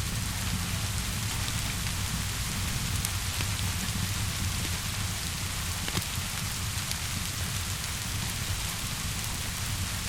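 Steady rainfall hissing, with a low rumble underneath and scattered sharp crackles of a fire, the loudest about six seconds in.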